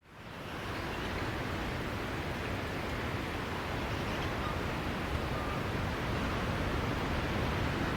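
Sea waves washing onto a beach, a steady rushing surf that fades in over the first second.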